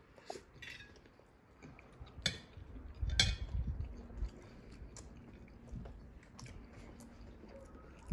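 Eating at a table: chewing, with scattered light clicks of forks on plates and a louder, brief burst of noise about three seconds in.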